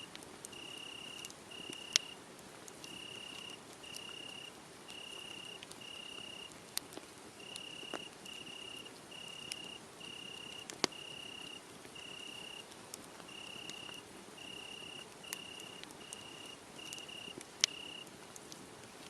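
Cricket chirping in short trills, about one a second, that stop near the end, with the sharp crackles and pops of a wood fire; a few loud pops are the loudest sounds.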